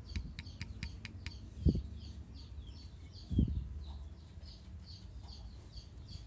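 A small bird calling over and over: a fast run of sharp ticks, about five a second, for the first second, then short high chirps repeated three or four times a second. Two dull thumps stand out, just under two seconds in and again about a second and a half later.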